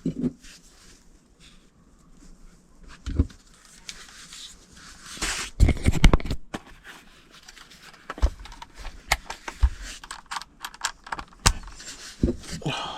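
Handling noises of tools and parts: scattered clicks, knocks and scrapes, with a louder clatter about five seconds in.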